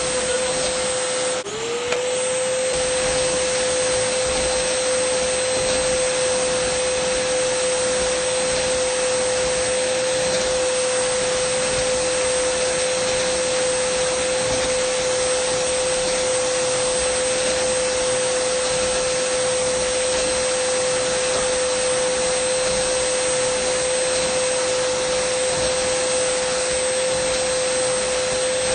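Dyson vacuum cleaner motor running steadily: a high whine over the rush of air. About a second and a half in, the whine briefly dips in pitch and climbs back.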